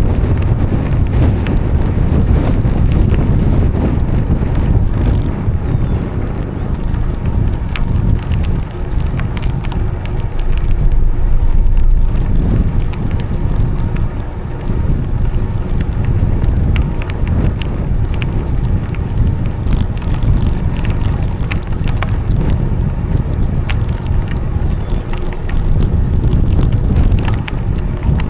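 Wind buffeting the microphone of a moving bicycle, with tyre noise from the path and scattered small clicks and rattles from the bike.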